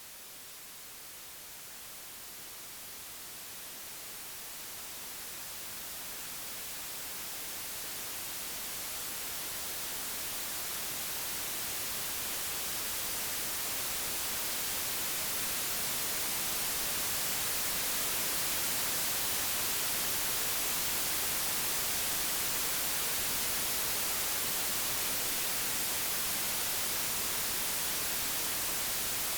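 Synthesised white noise: an even, steady hiss with no tones or events, slowly growing louder over the first half and then holding level.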